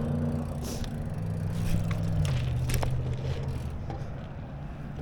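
Riding noise from a bike in motion: a steady low rumble of wind and tyres on the microphone, with a few sharp clicks and rattles.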